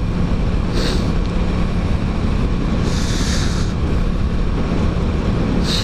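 Wind rushing over the microphone while riding a motorcycle at steady highway speed, the Aprilia Tuono 660's parallel-twin engine humming steadily under cruise control. A brief gust of hiss about three seconds in.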